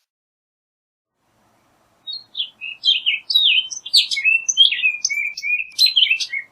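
Orchard oriole singing: a rapid, jumbled run of whistled and slurred notes, most sliding downward, starting about two seconds in and running on for about four and a half seconds.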